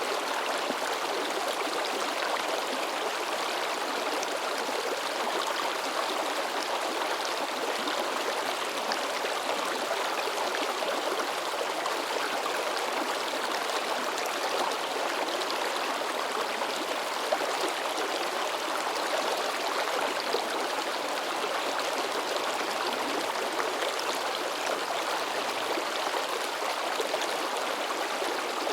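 A shallow river babbling and splashing over rocks: a steady rush of water with no let-up.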